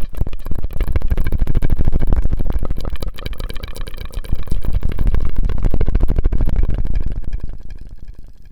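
Close-miked ASMR mouth sounds: a rapid, dense run of clicks and pulses made with the mouth, dying down near the end.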